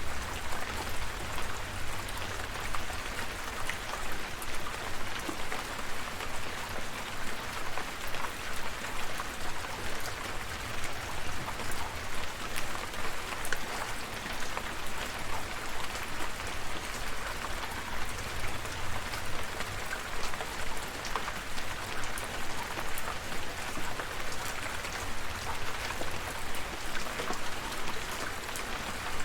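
Steady rain falling, a continuous hiss with many individual drops pattering on surfaces and a low rumble underneath.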